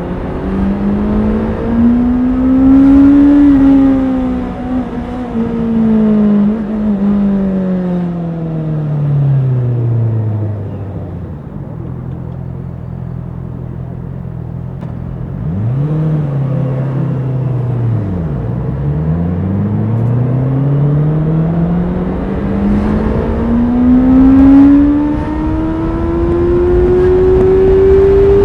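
Honda CBR650R's inline-four engine revved up slowly and let back down, then idling steadily. About halfway through it gives a quick blip of the throttle, then its pitch climbs slowly again and is still rising near the end.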